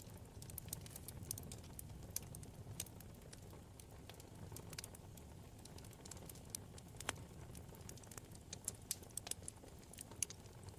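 Wood fire burning in a fireplace: a low steady rumble of flames with frequent irregular sharp crackles and pops from the burning logs, a louder pop about seven seconds in and a cluster of pops near the end.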